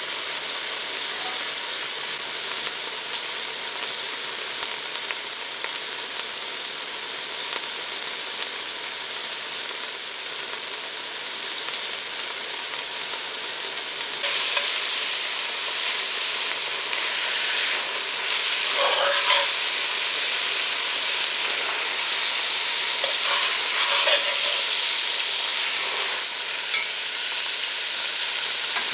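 Lobster tail pieces sizzling steadily in hot butter in a pot, with a few brief louder spits and crackles in the second half.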